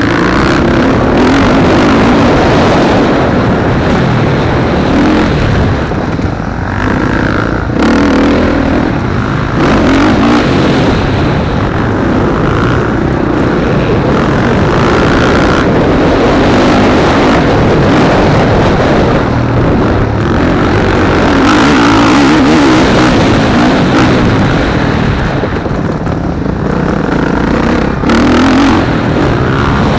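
Motocross bikes racing, engines loud and continuous, revving up and down over and over as riders work the throttle.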